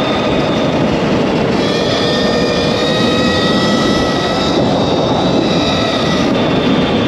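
Stark Varg EX electric motocross bike under way: a high electric-motor whine of several tones that drifts up and down in pitch with speed, over a steady rush of wind and tyre noise.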